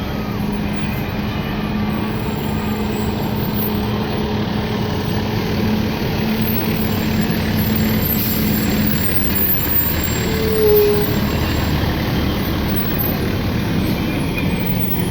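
Fire truck's diesel engine running steadily in a low rumble, with a brief higher note about ten and a half seconds in.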